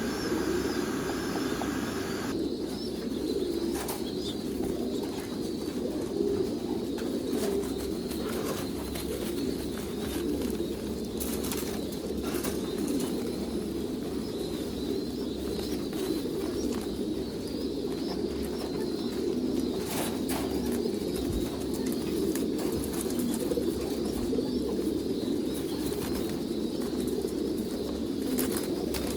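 A flock of pigeons cooing together in a steady low hum, with scattered wing flaps and short sharp knocks.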